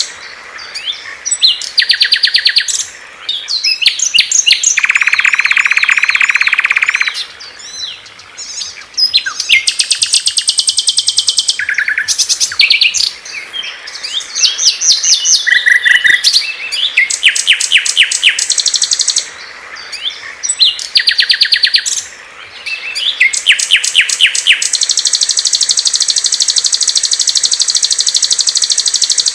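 Small songbirds singing loud and clear, one song after another: rapid high-pitched chirps and trills that change pattern every few seconds, with a buzzy lower phrase about five seconds in and a long fast trill near the end.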